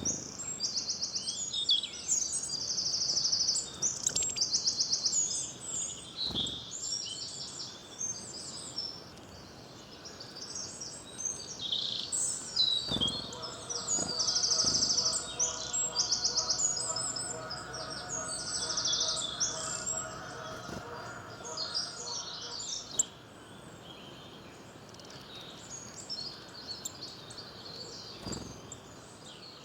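Several songbirds singing and chirping, with repeated high, very rapid trills, busiest in the first half. A faint steady hum of several tones sounds underneath for about ten seconds in the middle.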